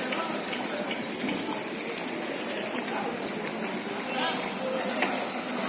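Steady noise of flood water, with faint voices in the background.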